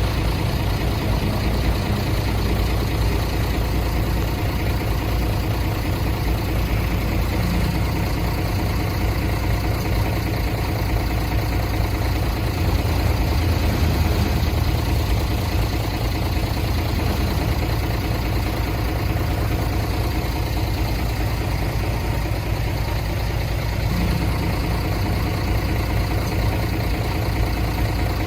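Heavy diesel engine of earthmoving machinery running steadily at an even pitch, with a strong low drone.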